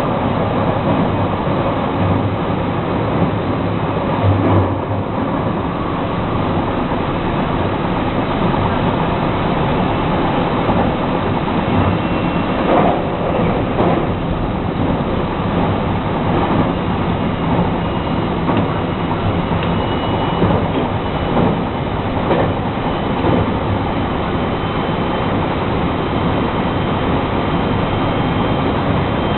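JR West 223 series electric train running along the line: steady rolling rumble with occasional knocks from rail joints, and a faint high whine from the Hitachi traction equipment that slowly rises in pitch through the second half.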